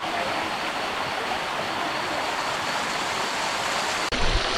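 Steady rushing of river water cascading over rocks, an even hiss with no pitch. About four seconds in, the sound jumps and a deeper rumble joins it.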